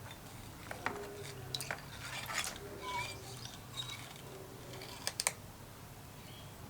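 Small metal parts being handled, making scattered light clicks and taps with a short scrape in the middle and two sharp clicks just after five seconds in.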